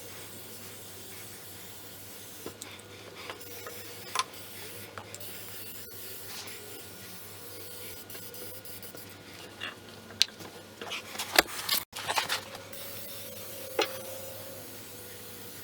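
Rubbing and handling noises with scattered sharp clicks, and a quick run of louder clicks and knocks about eleven seconds in.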